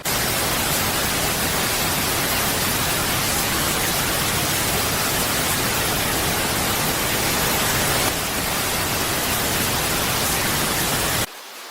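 Steady, loud hissing rush of noise spread evenly from low to high pitch, with no tones or rhythm. It cuts in abruptly and cuts off abruptly shortly before the end.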